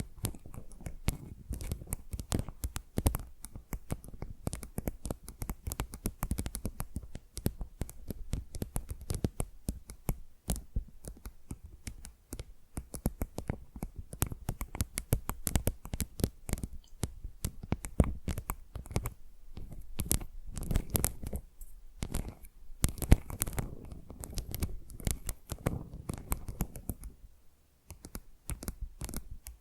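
Fingernails scratching and tapping on a tile, close to the microphone: a dense run of quick clicks and scratches with brief pauses.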